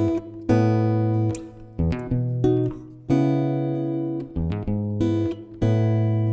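Background music: acoustic guitar chords strummed about once a second, each left to ring and fade before the next.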